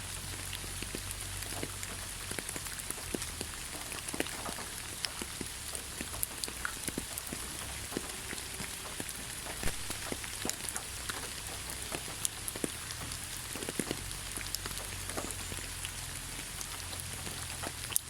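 Steady light rain falling on leaves, a soft even hiss with many separate drops pattering irregularly. A faint low hum runs underneath.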